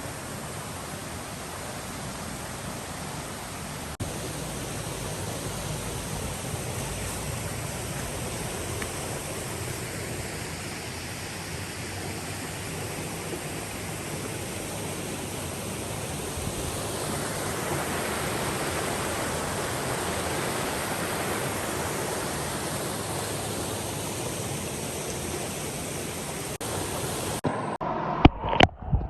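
Steady rushing noise, swelling a little about two-thirds of the way through, that cuts off abruptly near the end and gives way to a few sharp knocks.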